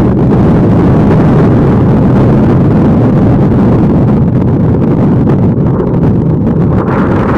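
Strong wind buffeting the microphone, a loud, steady, fluttering rumble. A faint steady engine tone comes in under it in the second half.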